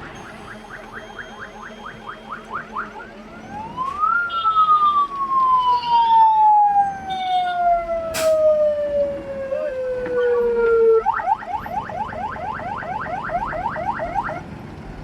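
Electronic siren: fast repeated rising yelps, then one upward sweep into a long, slowly falling wail lasting about seven seconds, then fast yelps again near the end. A single sharp click comes about halfway through.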